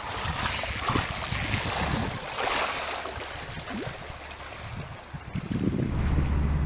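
Sea water splashing and lapping against a kayak, with wind noise. A high thin tone sounds for about a second near the start, and music comes in near the end.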